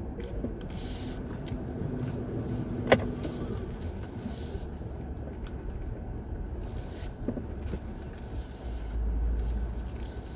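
Low, steady vehicle rumble, with one sharp click about three seconds in.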